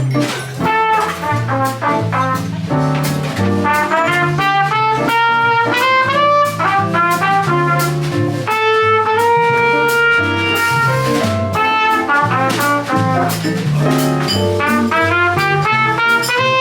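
Live small-group jazz: a horn plays the melody over a walking bass and a drum kit with cymbals. About halfway through the horn holds a few long notes before returning to quicker phrases.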